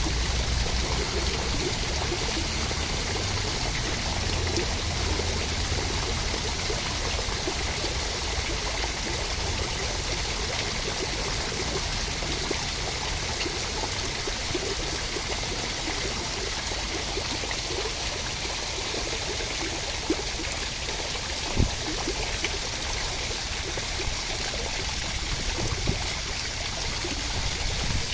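Steady rushing water, an even unbroken hiss. Two brief sharp knocks come about two-thirds of the way through.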